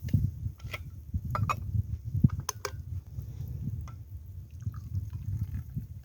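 Gusting wind rumbling on the microphone, with scattered sharp crunches and clicks, the loudest about two and a half seconds in.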